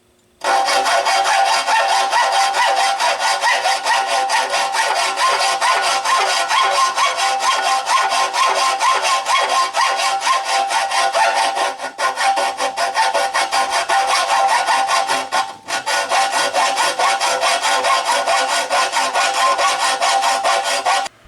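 A saw cutting through aluminum plate in rapid, steady strokes, with a squealing ring from the blade on the metal. It breaks off briefly twice.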